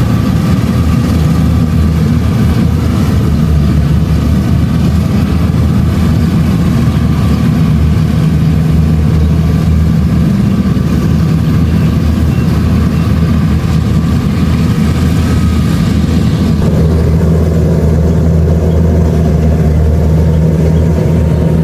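Kubota DC-70 Plus combine harvester running steadily, its diesel engine giving a constant low hum with steady tones above it. About sixteen seconds in, the mix of tones shifts slightly.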